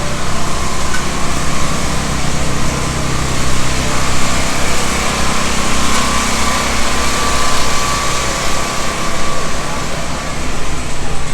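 An engine running steadily, with an even low hum under a broad hiss.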